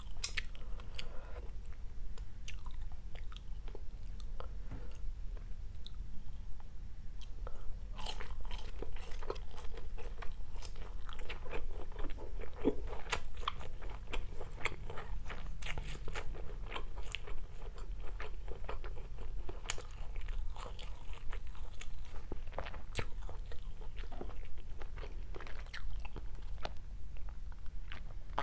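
Close-miked eating: chewing and crisp crunching of a mouthful of stir-fried rice vermicelli with fried tofu and vegetables, many small crunches, sparser at first and denser from about eight seconds in.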